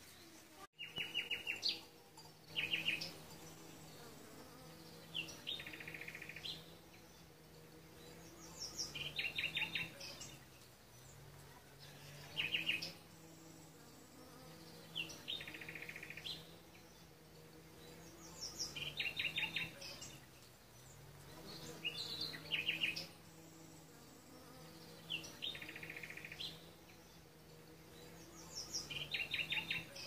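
A songbird repeating a short phrase of rapid chirps with a thin high note about every three seconds. Under it runs the low, steady buzz of a large insect flying among the flowers.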